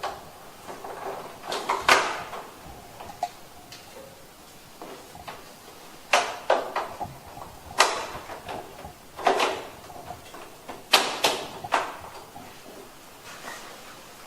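Plastic parts of a wall-mounted air conditioner's indoor unit being handled and snapped into place: about ten sharp clicks and knocks at uneven intervals.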